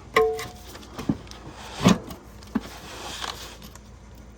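Several sharp metal clanks and knocks from a large wrench being worked on a stuck oil filter. The first one rings briefly and the loudest comes near the middle, with some scraping after it.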